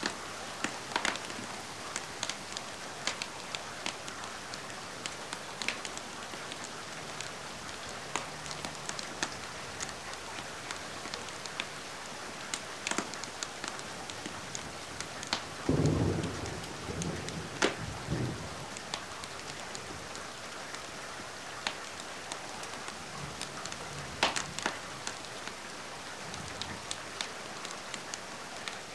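Steady rain mixed with a wood fire crackling: an even hiss with scattered sharp pops. About halfway through, a low rumble swells for a couple of seconds, the loudest sound here.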